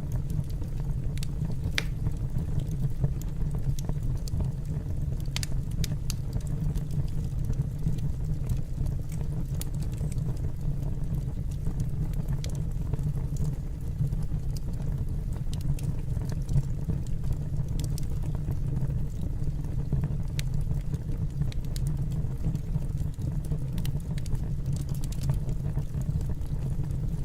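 Fire burning in a fireplace: a steady low rumble of the flames with sparse, irregular crackles and pops.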